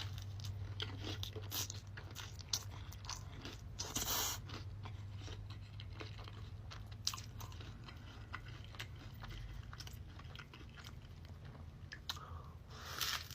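A person chewing and crunching food close to the microphone: irregular crunchy bites and mouth sounds, loudest about four seconds in, over a low steady hum.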